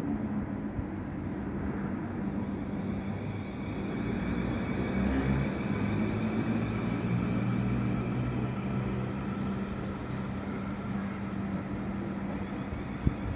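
Train at a station platform, a steady mechanical drone of engine or traction-motor hum over rumble, its low tones shifting in pitch partway through.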